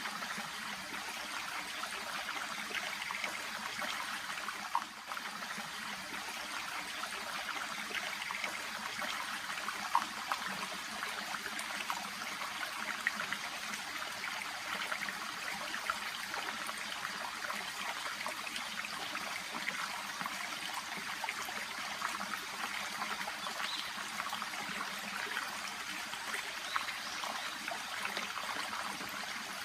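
Shallow brook babbling and trickling over stones, a steady bright rush of water with small splashes throughout.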